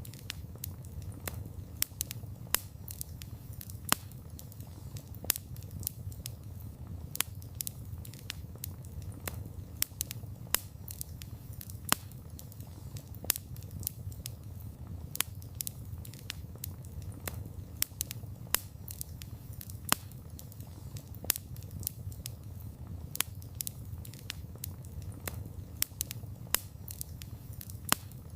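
Wood fire crackling: a low rumbling hiss under frequent sharp, irregular pops and snaps.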